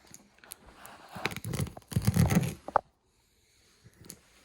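A cardboard box being cut open: a blade scraping and tearing through packing tape and cardboard, with small clicks from handling. The scraping grows louder, then stops at about three seconds in.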